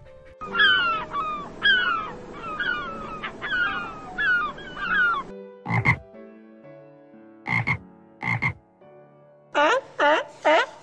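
Frogs croaking. A run of repeated falling calls comes first, then three separate croaks, then another quick run of calls near the end.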